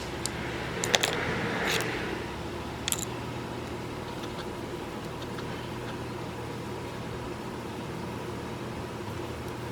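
A steady mechanical hum, with a few sharp clicks and a brief swell of noise in the first three seconds.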